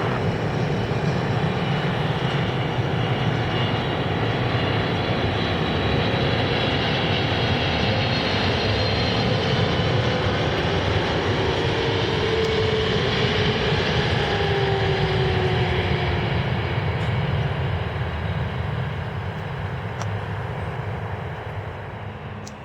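Widebody twin-engine jet airliner passing close on final approach, its engine noise loud and steady, with whining tones that fall in pitch as it goes by. The sound fades near the end.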